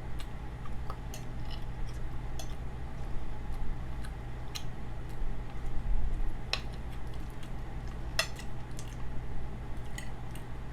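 Cutlery clinking and tapping against a plate while eating: scattered light clicks, with two sharper ones past the middle.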